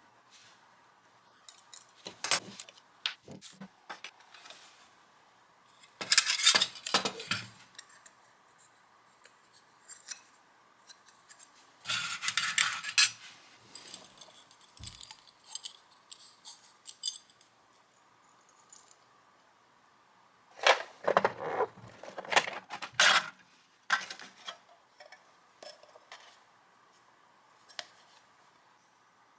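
Small metal items clinking and clattering as they are handled, in four short bursts with quiet between them.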